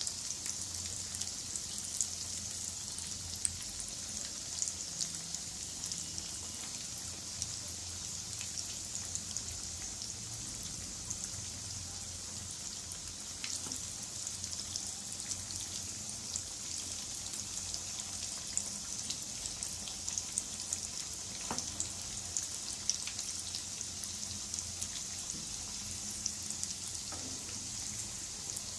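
Hot oil sizzling steadily as vermicelli-coated potato balls deep-fry, with scattered small crackles and pops.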